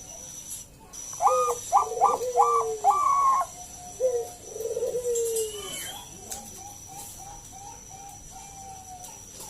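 Bangkok-type zebra dove (perkutut) singing its loud, rapid cooing phrase of about five notes, then a shorter lower phrase. After that come soft, short coos repeated about three times a second.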